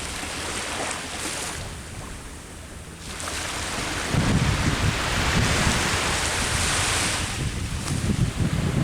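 Sea waves breaking on the shore: the surf eases off, then a wave comes in about three seconds in and washes loudly for several seconds. Wind buffets the microphone with a gusty low rumble.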